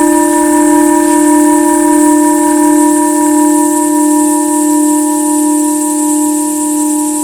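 Tibetan singing bowls ringing on in a long, steady, low hum with several higher overtones held above it, with no new strike.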